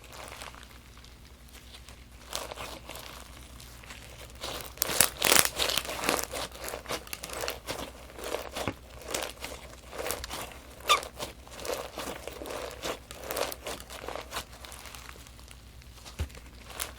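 Crunchy slime packed with sprinkles being squeezed and pressed by hand, giving a dense run of crackles and pops. It is busiest from about five seconds in until about fourteen seconds, quieter before and after.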